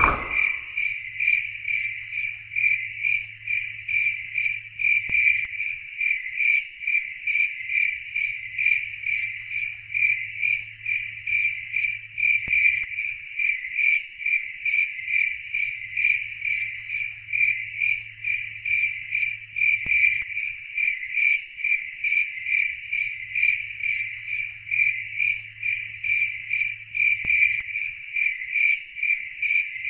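Crickets chirping in a steady, rapid, even pulse, with a faint low hum that comes and goes in stretches of a few seconds.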